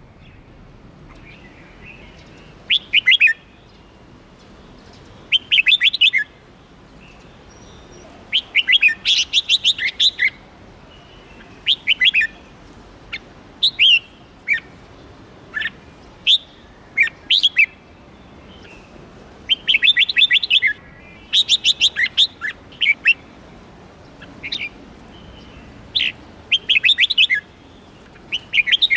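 Red-whiskered bulbul singing: short bursts of rapid, high chirping notes every one to three seconds.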